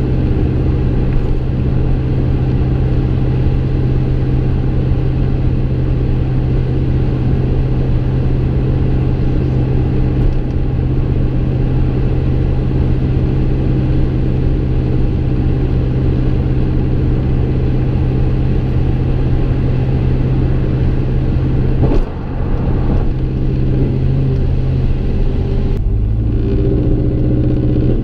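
Exhaust of a 2015 Chevy Silverado's 5.3-litre V8 through a Gibson M.W.A muffler and Kooks long-tube headers, heard inside the cab: a steady cruising drone for most of the time, a short click and dip about three quarters through, then the engine note rising as it accelerates near the end.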